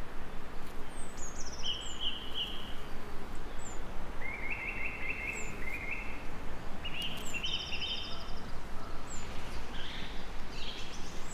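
Several songbirds singing over a steady hiss of rain: short trilled phrases from more than one bird, and a brief high chip repeating about every second.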